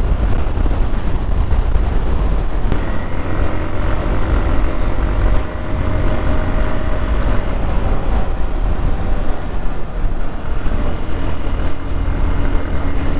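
Hero XPulse 200 single-cylinder motorcycle engine running steadily under way, with a low rumble and wind rushing over the camera microphone.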